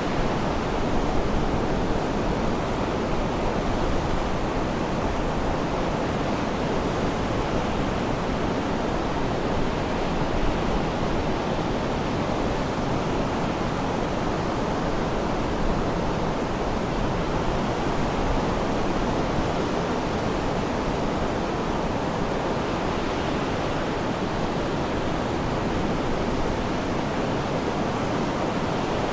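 Sea surf: a steady, continuous wash of waves with no single breakers standing out.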